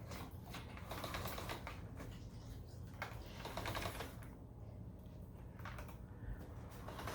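Faint, irregular light clicking and rattling from handling a vacuum cleaner, with no motor running.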